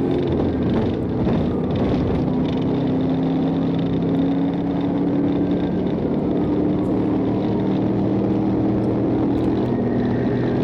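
Patrol car engine running hard at high speed, its pitch shifting slowly, with steady road and wind noise.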